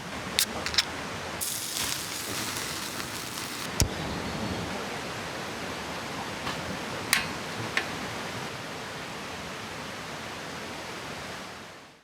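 Mountain river flowing steadily, a constant rushing hiss, with a few sharp pops and clicks over it; the sound fades out near the end.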